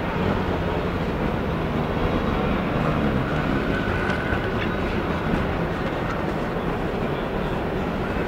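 A train running through a railway station: a steady, loud rumble with a faint high tone coming in about two and a half seconds in.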